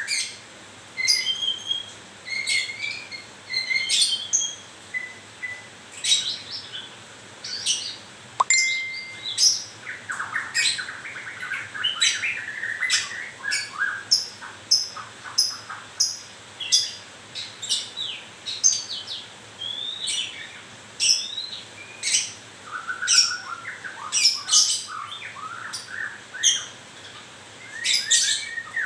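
White-rumped shama (murai batu) singing in a steady run of short, sharp chirps and whistled notes, with some rapid lower trills among them.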